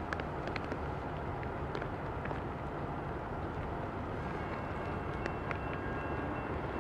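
Approaching Norfolk Southern diesel freight train, a steady low rumble with scattered light ticks. About four seconds in, faint high steady tones join it.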